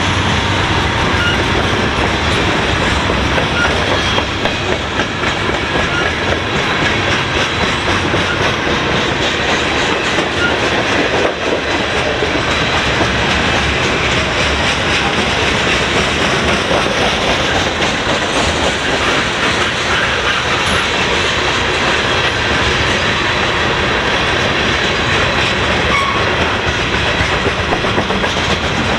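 Freight cars of a long freight train rolling past at about 25 mph, a steady rumble with the clickety-clack of wheels over rail joints.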